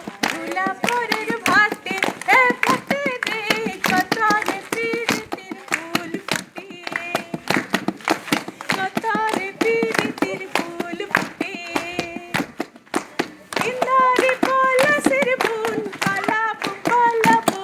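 A group of people clapping their hands while several voices sing along, the clapping running continuously under the voices.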